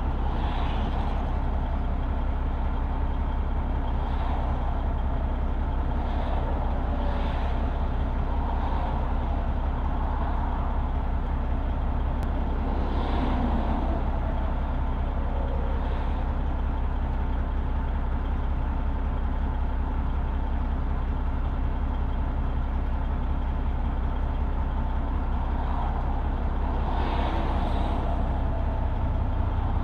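Semi truck's Detroit Diesel Series 60 inline-six diesel engine idling, a steady low hum.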